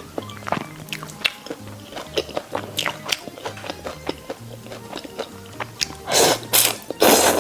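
Soft background music with repeating low notes, over close-up eating sounds: many small sharp clicks of biting and chewing. Two louder, noisier bursts come near the end.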